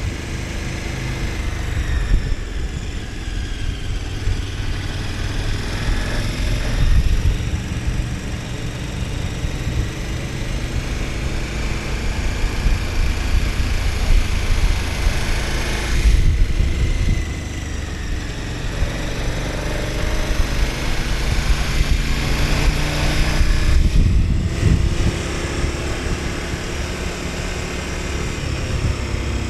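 KTM 1290 Super Adventure S's 1301 cc V-twin running under way, its note rising and falling with the throttle over a heavy low rumble. The note drops away briefly about halfway through and again later.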